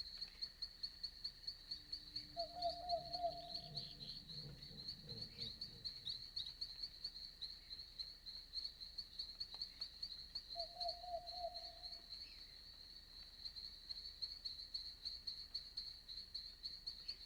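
Night forest ambience: crickets chirping in a steady, fast pulsing trill, with an owl giving two short wavering hoots, about two seconds in and again about ten seconds in. A faint low rumble passes under the first hoot.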